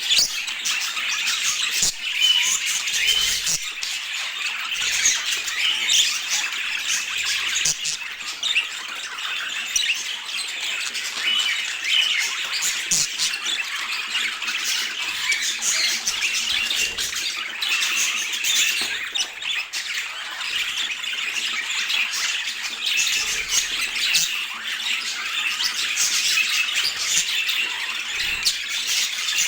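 Budgerigar chatter: a dense, continuous run of short high chirps, squawks and warbles.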